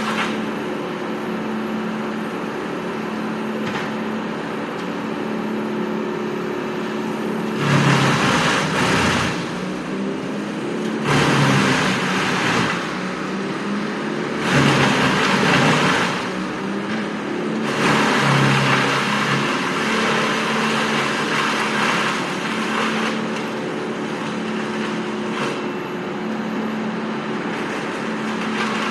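Heavy diesel machinery running steadily at a tree-removal job, with four loud, rough surges of about one and a half to two seconds each in the middle stretch.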